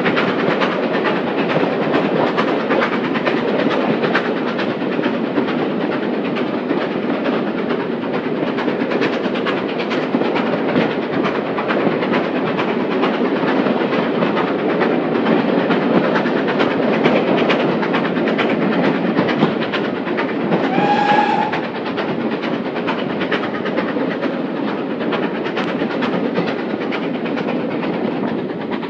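Heritage steam train running at speed, heard from a carriage: a steady rolling rumble with the clatter of wheels over rail joints. One short whistle note sounds about two-thirds of the way through.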